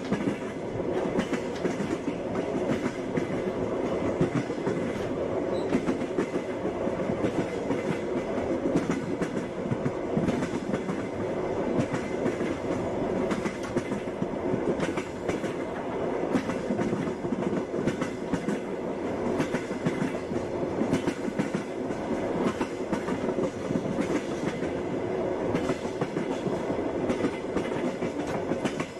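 Passenger train running along the track: a steady rumble of the carriage with the wheels clacking over the rail joints.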